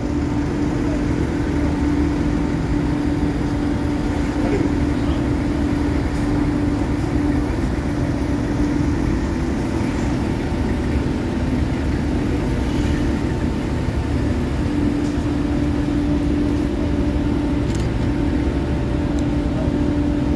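Vehicle engines running at low speed as a convoy of SUVs creeps forward, a steady drone with a constant low hum over a rumble.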